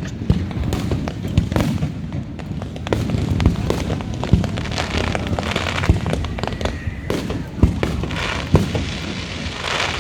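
Fireworks display going off in rapid succession: many sharp bangs and booms, with crackling about halfway through and again near the end.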